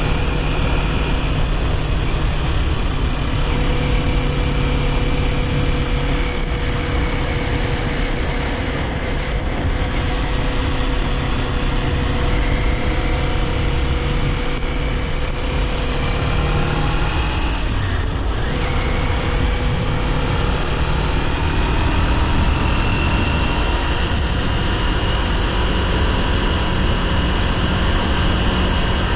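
Kawasaki Ninja 400's parallel-twin engine running steadily under way at cruising revs, its note wandering slightly up and down with the throttle, over a constant rush of wind and road noise.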